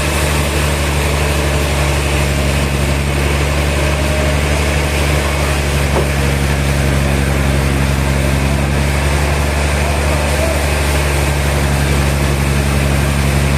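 Sawmill machinery engine running at a steady speed, a continuous low hum that does not rise or fall.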